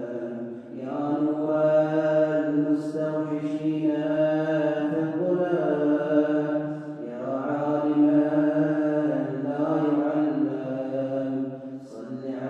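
A man's voice chanting an Arabic supplication in long, melodic held phrases, pausing briefly for breath about a second in and again around the middle.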